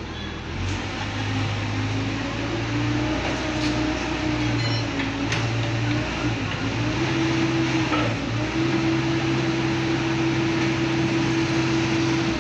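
Engine of a heavy machine running steadily. It grows louder about half a second in and its pitch steps up about seven seconds in.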